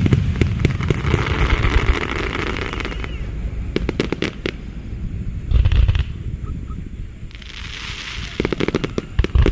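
Aerial fireworks bursting: deep booms and sharp cracks in quick runs, with stretches of dense crackling from the shells' glittering stars.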